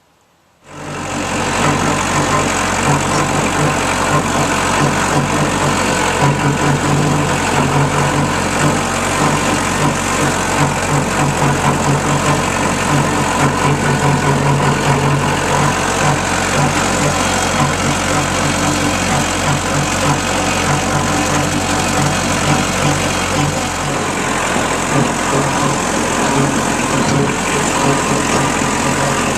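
Kubota L285 diesel tractor engine running steadily. It comes in about half a second in and holds at an even level throughout.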